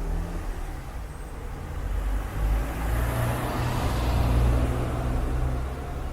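Street traffic: a road vehicle passes, its engine rumble and tyre noise building about two seconds in, loudest around the middle, then easing off.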